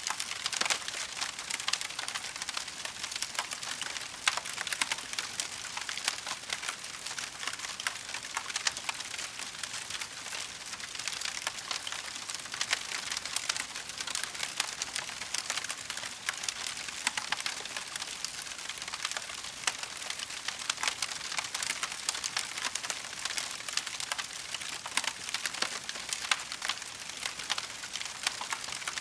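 Wood fire crackling in a fireplace: many small, irregular pops and snaps over a steady hiss.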